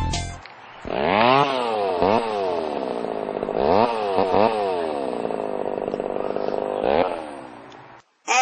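Petrol chainsaw revving up and down several times, its engine pitch rising and falling with the throttle, starting about a second in and fading away near the end.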